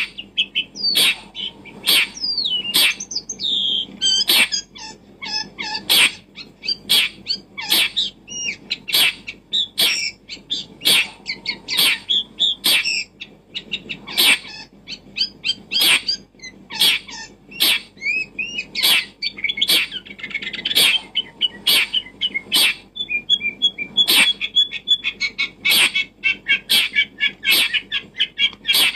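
Birds chirping with quick rising and falling calls, mixed with frequent sharp clicks that come roughly one to two times a second.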